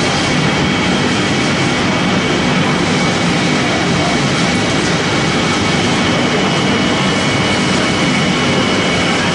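Pellet making machine running steadily: a loud, even mechanical noise with two thin steady high whines over it.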